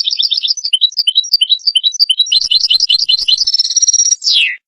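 European goldfinch song: a fast twittering run of high notes, a rapid trill, one held high buzzy note, and a final note that slurs downward and stops abruptly.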